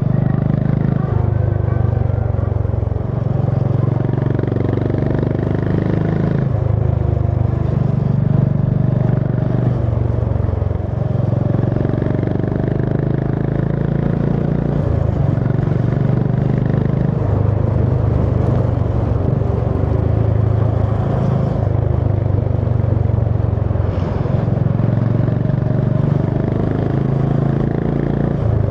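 Honda CB350 H'ness single-cylinder motorcycle engine running steadily on the move. Its note steps up and down every few seconds as the throttle changes.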